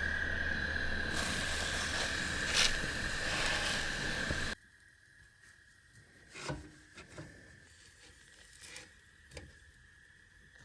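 Steady cooking hiss from a pot or pan on the stove, with a thin high whine, cutting off abruptly about four and a half seconds in. After that it is quiet, with a few light clicks and knocks of cookware being handled.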